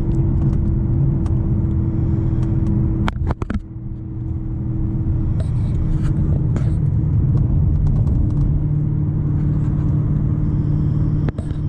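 2014 Corvette C7 Stingray's 6.2-litre V8, straight-piped with headers and a tune, droning steadily at cruising speed. About three seconds in it dips briefly with a couple of clicks, then the exhaust note builds back up and holds.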